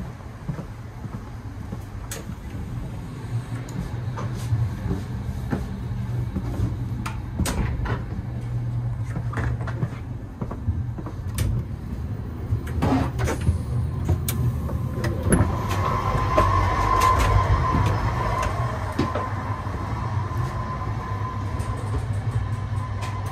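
Passenger train running, a steady low rumble with scattered knocks and rattles. A steady high squeal joins about two-thirds of the way through and continues to the end.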